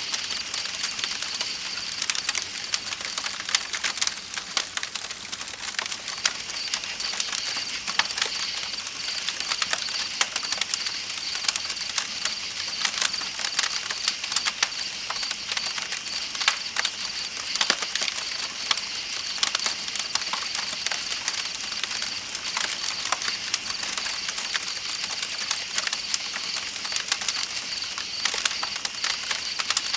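Campfire crackling with many irregular pops, over the steady hiss of flowing river water and a continuous high trill of night insects.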